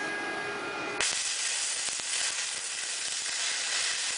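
Electric welding arc sizzling steadily as a tack weld is laid on the profile tubing; it strikes suddenly about a second in and burns on without a break.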